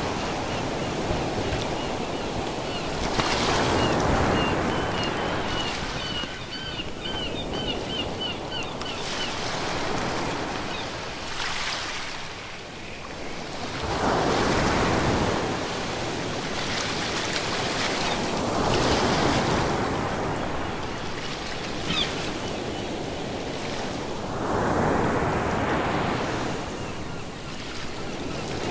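Ocean waves breaking and washing on the shore, the surf swelling and easing every few seconds. A faint run of short high chirps comes through in the first third.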